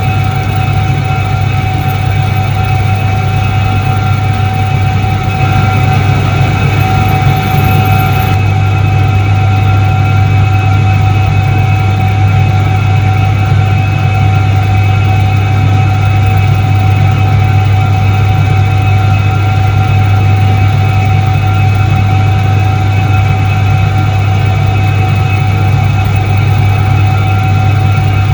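A 1978 Soviet Iset-3 washing machine running, its electric motor giving a strong, steady low hum with a constant higher whine over it.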